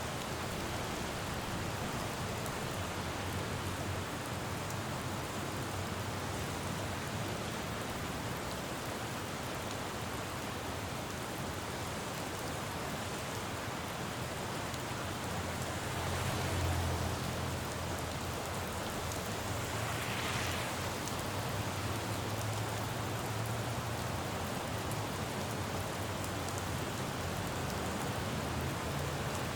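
Steady rain falling on a city road over a low rumble of traffic, with vehicles swishing past on the wet road twice around the middle.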